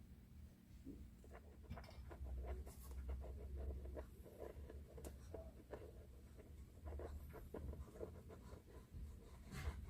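Hand work on a woofer at a repair bench: irregular light scratching and rubbing with small clicks and taps, over a low handling rumble.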